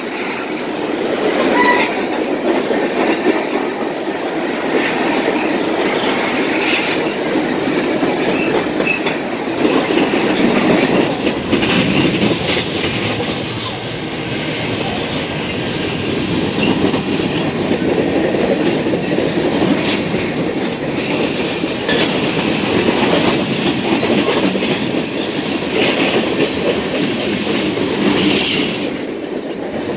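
Loaded freight train of tank cars, covered hoppers and boxcars rolling past at speed: a steady rumble of steel wheels on rail with repeated clicks as the wheels cross rail joints.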